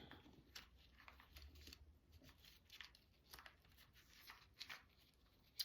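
Near silence with faint, scattered rustles and soft clicks of paper craft supplies being handled while searching through a stash of ephemera.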